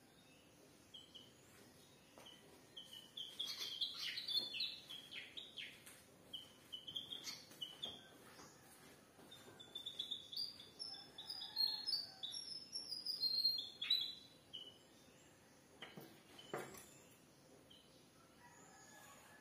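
Small birds chirping: runs of quick, high, rising and falling chirp notes, with a busy burst a few seconds in and a longer run of chirps in the middle. Two sharp knocks sound about sixteen seconds in.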